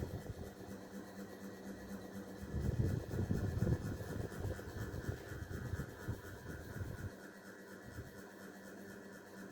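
Valaire 36-inch ceiling fan running, a bit noisy: a steady motor hum with a fine, fast whir. An uneven low rumble stops about seven seconds in.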